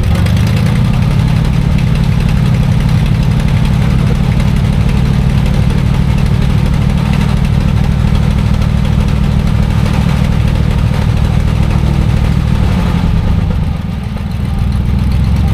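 Truck engine idling steadily, with a brief dip in level near the end.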